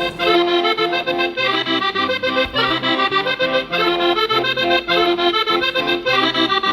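Accordion playing an instrumental folk dance tune: a quick melody over a steady, repeating bass line.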